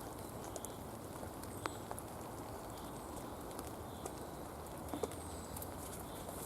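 Steady rain falling in a forest, with a few isolated sharp ticks.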